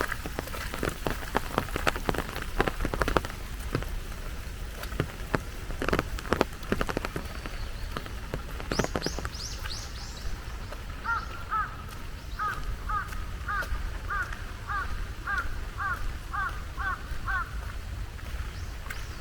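Rain falling, with loud close drips for the first half. Then a bird calls a run of about a dozen evenly spaced notes, roughly two a second.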